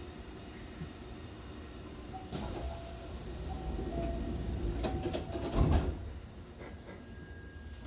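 Hankyu commuter train's sliding passenger doors closing: a sudden hiss a little over two seconds in, a few clatters, then a heavy thud as they shut about two-thirds of the way through.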